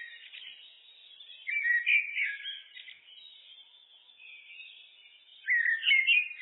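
Eurasian blackbird (Turdus merula) singing: two loud, fluty, warbled phrases about two seconds in and again near the end, with softer twittering between them.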